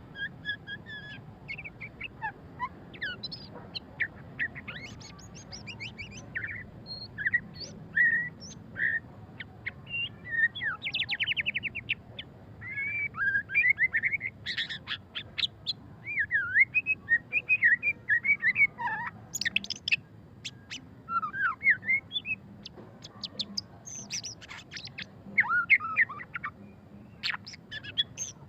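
White-rumped shama singing a long, varied song of whistled notes, rapid trills and sharp upswept chips, in the fast twittering style bird keepers call ngeriwik.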